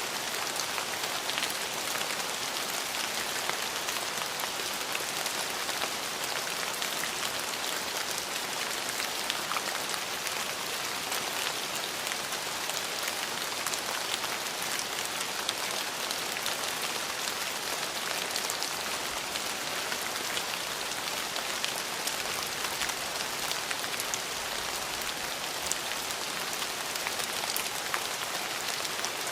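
Steady rain falling, with many fine drop ticks on surfaces over an even hiss.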